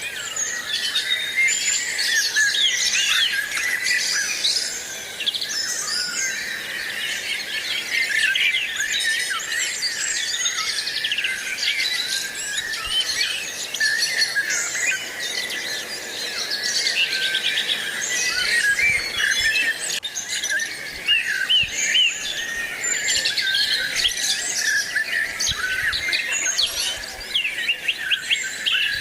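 A flock of small wild birds chirping and calling continuously, many short high calls overlapping at once.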